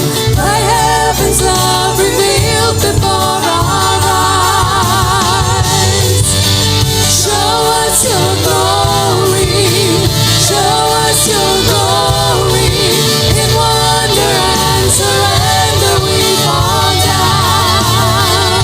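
Worship band playing a contemporary Christian song, with voices singing over a steady bass and drums.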